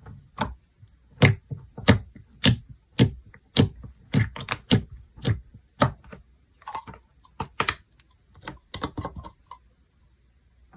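Slime being pressed and folded by hand, making sharp clicking pops. The pops come evenly, about two a second, for several seconds, then turn irregular, and stop about a second before the end.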